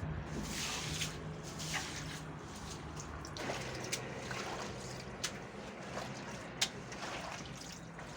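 Water trickling and dripping, with a faint steady hum and several short light clicks and swishes scattered through.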